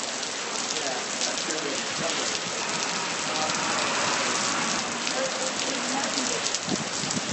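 Heavy rain falling and pattering on hard surfaces in a storm, a steady dense hiss speckled with individual drop hits.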